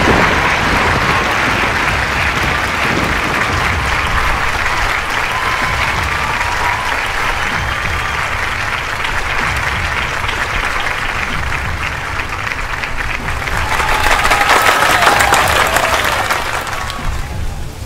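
Large audience applauding steadily, growing louder about fourteen seconds in and dying down near the end.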